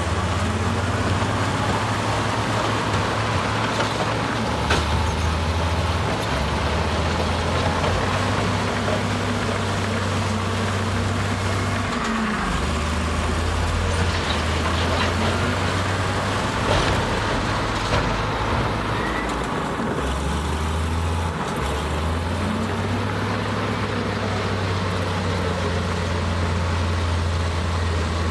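Heavy diesel engine of earthmoving machinery running steadily, its pitch rising and falling several times as the load changes, with a few sharp clanks.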